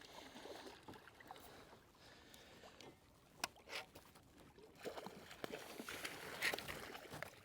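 Faint, scattered clicks and knocks from handling on a fishing kayak, over a light wash of water.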